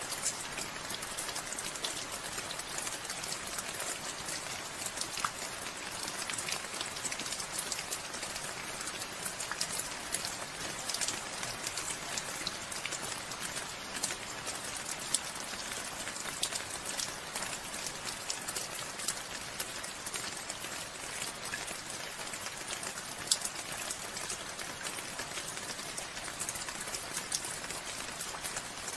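Steady rainfall, with many individual drops ticking sharply over a constant hiss and one louder drop about 23 seconds in.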